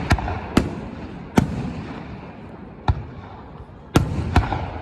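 Aerial fireworks shells bursting, about six sharp bangs at uneven intervals, each trailing off in a rumbling echo.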